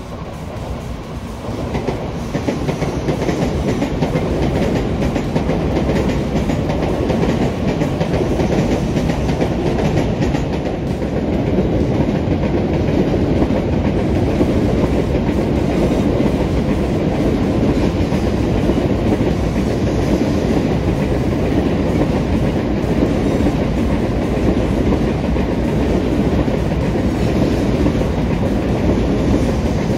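Shinkansen bullet trains running along an elevated viaduct: a steady rumble of train noise that grows louder over the first couple of seconds and then holds.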